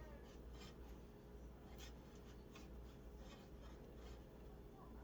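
Near silence with faint scattered rustles and small scrapes as cables are pushed and worked by hand inside a PC case, over a low steady hum.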